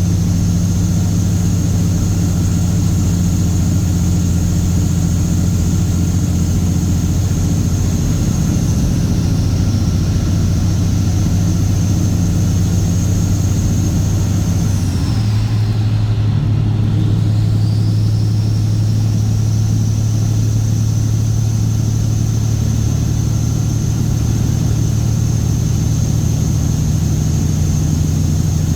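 Straight-piped Caterpillar C15 ACERT inline-six diesel in a Kenworth W900 truck, running steadily with a deep drone. About halfway through, the engine pitch shifts slightly, and a high whine dips and then climbs back.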